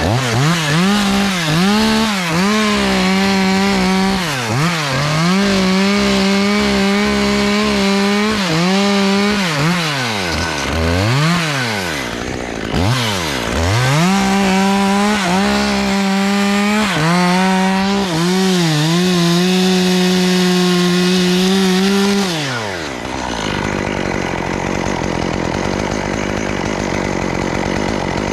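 Two-stroke chainsaw cutting tree limbs. It revs up and holds at full throttle through several cuts, falling back toward idle a few times. About 23 seconds in the revving stops and a lower, steady running noise carries on.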